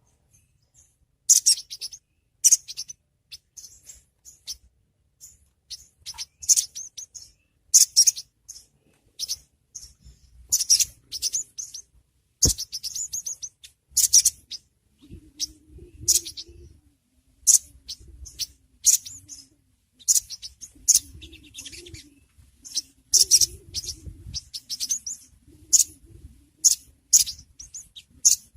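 Crimson sunbird (sogon) giving short, high, sharp chirps, singly and in quick runs, about one every second.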